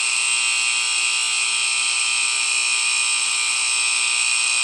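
Alarm at the water tower station next door sounding continuously: a steady, high-pitched buzz with no pauses or pulses.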